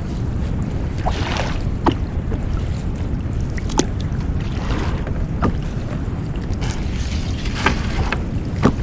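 Steady low rumble of a small fishing boat at sea, with wind on the microphone, broken by several sharp knocks and brief rustles as crabs are worked out of the nets on deck.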